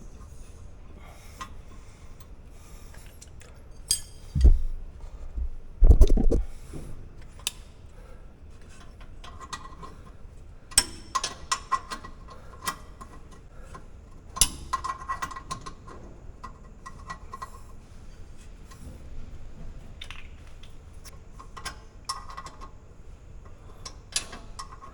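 Metal brake caliper parts and hand tools being handled: scattered light metallic clicks and clinks, with two heavier dull knocks about four and six seconds in.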